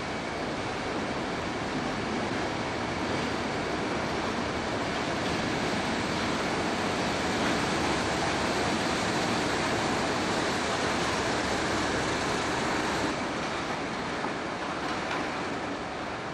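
Diesel-hauled train running through a station: a steady rumble and rail noise that slowly builds, peaks in the middle, and eases off near the end.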